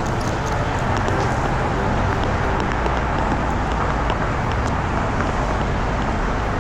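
Steady city road traffic: cars and other vehicles passing on a busy street, a continuous low rumble and hiss.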